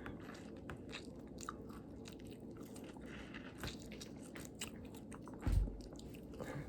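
Close-up chewing and biting of fruit: a run of small, sharp, wet mouth clicks. A louder low thump about five and a half seconds in.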